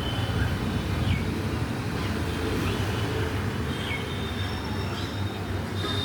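Birds chirping: short, faint falling chirps about once a second, over a loud, steady low rumble.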